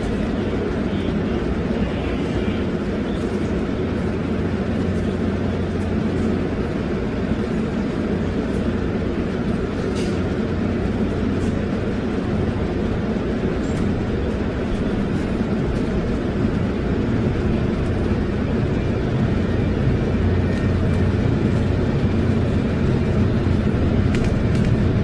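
Steady low rumble of a moving MBTA commuter rail coach, heard from inside the car.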